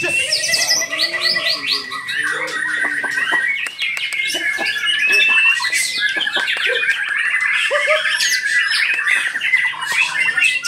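Several white-rumped shamas (murai batu) singing at once in competition, a dense overlapping stream of varied song with rapid trills and short chirps.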